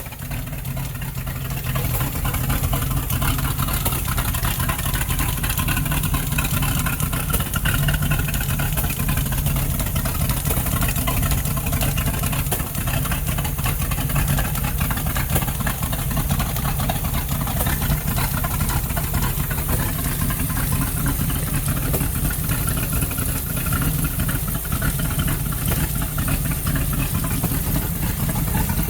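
Mercruiser 260 marine V8 engine running steadily just after its first start-up, settling in over the first couple of seconds. Its carburettors are still due for a cleanup.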